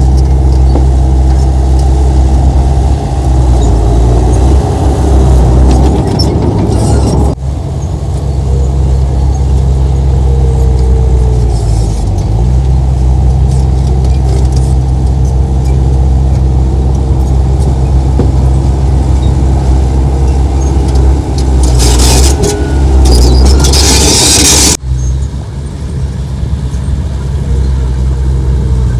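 Heavy diesel earthmoving machinery running hard, its engine a steady low drone with overtones. The sound changes abruptly about seven seconds in and again near the end. A loud hiss lasts about three seconds just before the second change.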